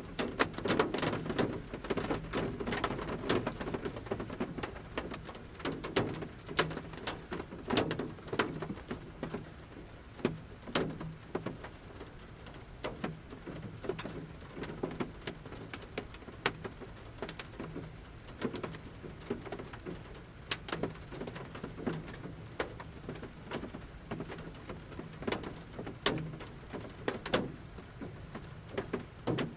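Large raindrops dripping from the forest canopy onto the roof of a camper van, heard from inside the van: irregular single taps over a soft rain hiss, thicker in the first few seconds and sparser after.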